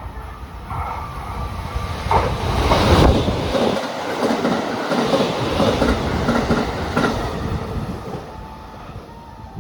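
A train passing on the track, its wheels clacking over rail joints, growing louder to a peak about three seconds in and then easing off.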